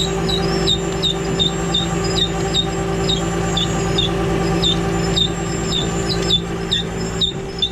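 Freightliner rollback tow truck's engine running steadily at idle. Over it comes a run of short, high, falling chirps, about two to three a second.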